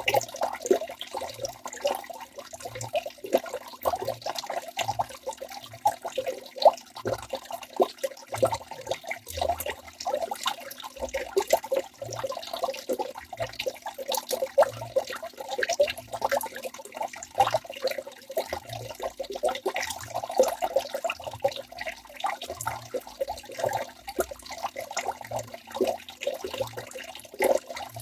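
Waterfall: water falling and splashing continuously, a steady rush broken by many small uneven splashes.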